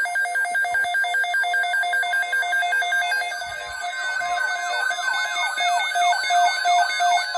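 Electronic alert tones: a rapid warble switching between two pitches for about three seconds, then a run of repeated falling pitch sweeps about twice a second, used as the attention signal of a tornado-watch alert.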